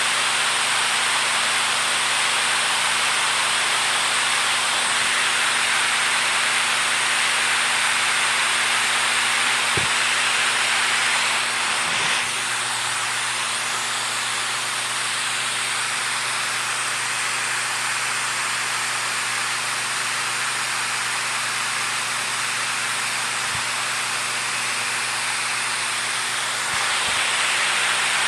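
Steady rushing water, a dense even hiss, dropping slightly in level about twelve seconds in and coming back up near the end.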